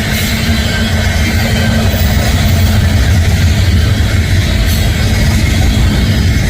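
Union Pacific manifest freight train rolling past, a loud steady rumble of its cars on the rails.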